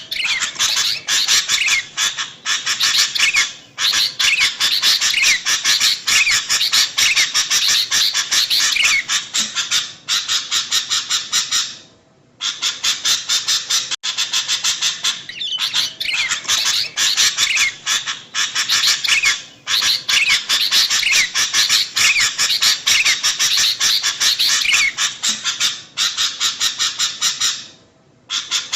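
Sooty-headed bulbul (kutilang) calls in a dense, noisy stream of quick chattering notes, broken by short pauses every few seconds. It is a looped lure recording of a female calling a male, repeating about every sixteen seconds.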